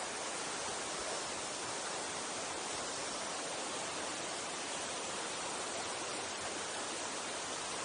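Steady rushing of a mountain stream: an even hiss of flowing water with no breaks.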